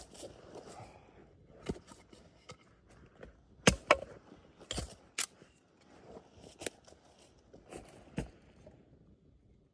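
Wood fire crackling, with irregular sharp pops and snaps over a faint hiss; the loudest are two pops close together about four seconds in.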